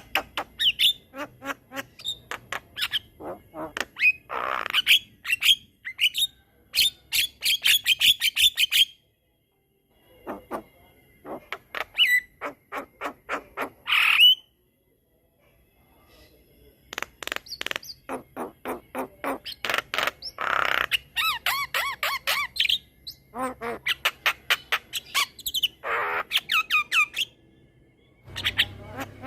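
Javan myna singing a long, energetic chattering song: rapid runs of clicks, harsh squawks and warbled whistles. The song stops twice briefly.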